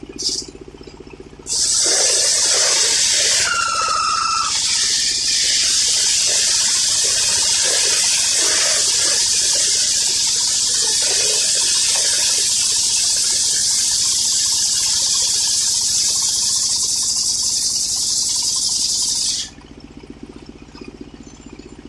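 Engine-driven circular sawmill blade cutting through old coconut-palm wood: a loud, steady hiss that starts abruptly and stops abruptly about eighteen seconds later, with the engine humming before and after the cut.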